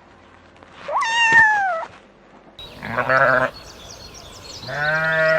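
A cat gives one meow about a second in. Then, after a cut, a goat-like animal bleats twice with a wavering, tremulous voice, the second bleat longer, while small birds chirp in the background.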